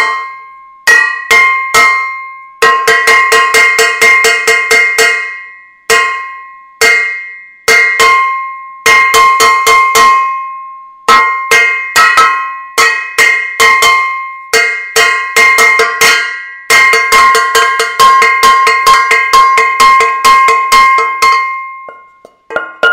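A metal saucepan being banged, each blow ringing on with a clear metallic tone. Single hits alternate with quick runs of several strikes a second, with short pauses between the runs.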